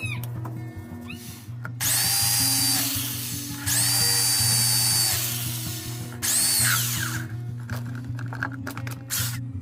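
Small electric power tool running in three bursts of a second or so each, a high whine that drops off as the tool spins down at the end of each run, over background music.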